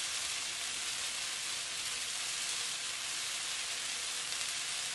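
Sliced onions and dried red chillies frying in oil in a wide pan, a steady, even sizzle.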